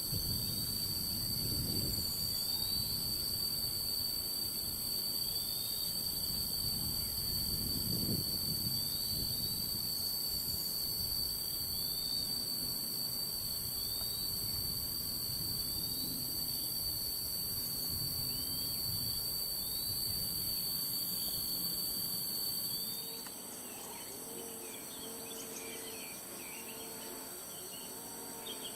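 A steady, shrill chorus of insects, with a bird repeating a short rising call every second or two. A low rumble underneath drops away about two-thirds of the way through.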